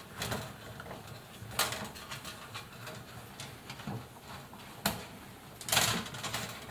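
Metal clamp spring being stretched and worked into place around the rubber door boot of an Indesit washing machine: scattered clicks and scrapes, with a sharp click about five seconds in and a longer rasp just after.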